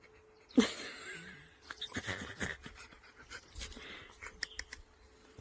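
A dog panting, with a sharp knock about half a second in and scattered light clicks after it.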